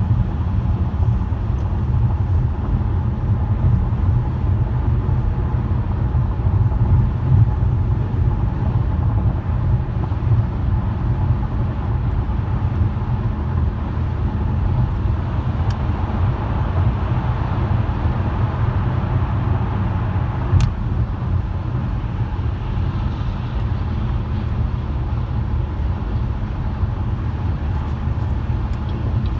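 Steady low rumble of a car driving: engine and tyre noise on the road. There are two faint ticks around the middle.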